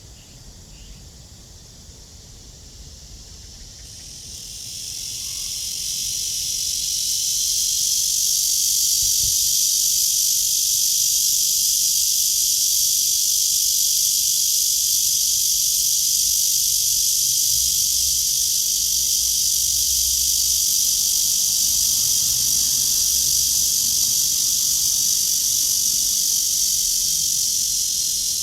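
A cicada calling: a loud, steady, high buzz that swells in about four seconds in and then holds without a break.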